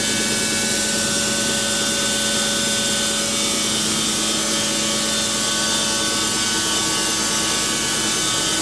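Wood-Mizer band sawmill blade cutting lengthwise through a pine log, the mill running steadily in the cut.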